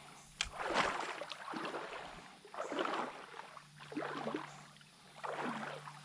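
Water sloshing around the legs of someone wading a shallow creek: four splashy swishes, roughly one every second and a half, with a sharp click near the start.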